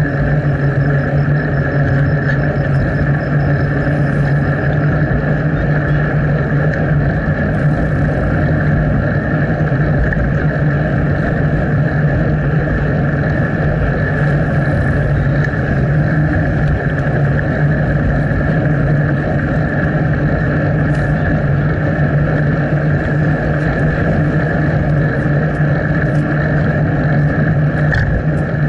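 Steady rush of wind and riding noise on a bicycle-mounted action camera while cycling at an even pace, with no breaks or changes.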